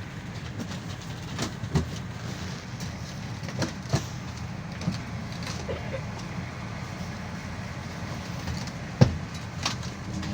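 Cabin noise inside a moving GAZelle Next minibus: a steady low rumble of engine and road, with scattered knocks and rattles from the body, the loudest a sharp jolt about nine seconds in.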